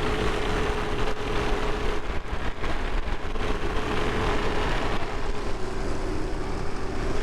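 Farm tractor engine running steadily, with a constant hum over a rumbling noise.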